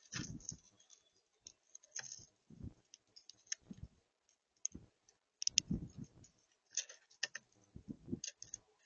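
Irregular sharp clicks and soft knocks close to the microphone, in uneven clusters with short gaps: birds pecking and shuffling on a seed feeder.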